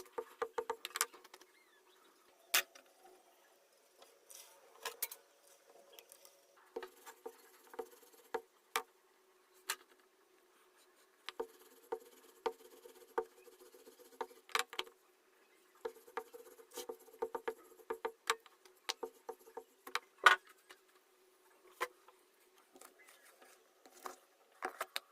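Kitchen utensils and dishes handled during cooking: irregular sharp clicks and light scraping, with short pauses between groups of strokes.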